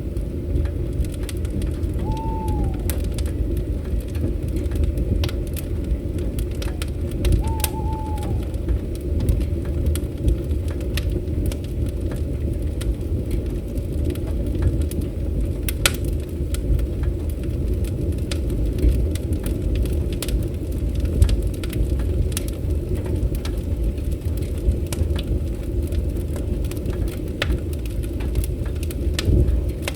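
Fireplace fire crackling, with scattered sharp pops over a steady low rumble. Two short falling whistled notes sound about two and seven seconds in.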